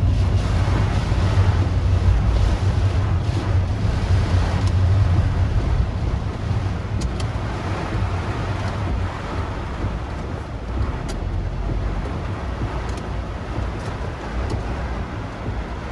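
Typhoon wind buffeting the microphone with heavy rain, a dense rushing rumble that eases slightly in the second half.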